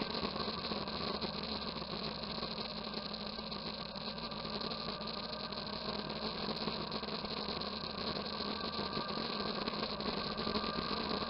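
Motorcycle engine running steadily, with a constant noise haze over it and no change in pitch.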